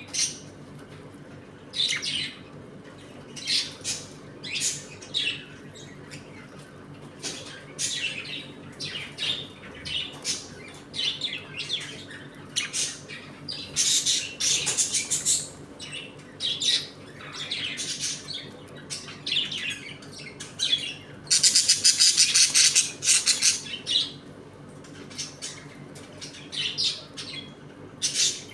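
A colony of pet budgerigars chirping and squawking in many short calls, with a loud, dense burst of squawking about 21 seconds in that lasts a couple of seconds. A faint steady low hum runs underneath.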